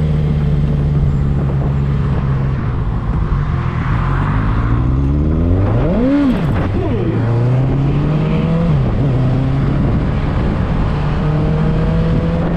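Motorcycle engine running steadily under way. About six seconds in, the engine pitch rises sharply and falls straight back, then drops again a little before nine seconds.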